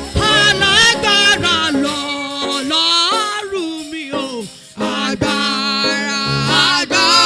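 Worship music with a voice singing long, wavering notes with vibrato over a steady instrumental accompaniment, with a short break about four and a half seconds in.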